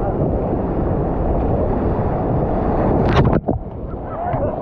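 Whitewater rushing around a raft, with wind buffeting the microphone. A sharp splash comes about three seconds in, and the sound drops briefly after it.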